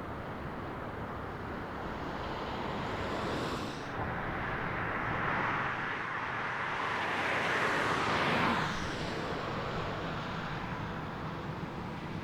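Jet airliner passing, its engine noise swelling to a peak about eight seconds in and then fading away.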